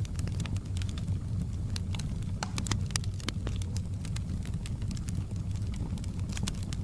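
Campfire burning: a steady low rush from the flames under many sharp, irregular crackles and pops of burning wood.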